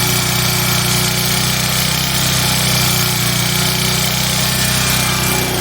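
Portable gasoline generator engine running hard and steady, its throttle wedged open for more speed and power. It eases off slightly near the end.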